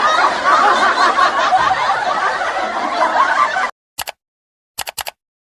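Laughter sound effect: many people snickering and chuckling together, cutting off suddenly about three and a half seconds in. A few brief clicks follow near the end.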